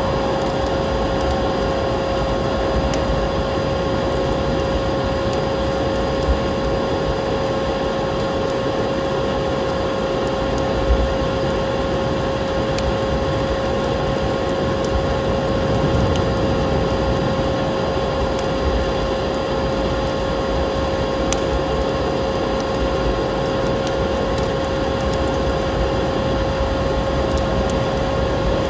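Wood fire crackling, with scattered sharp pops over a steady rushing noise and a constant low hum.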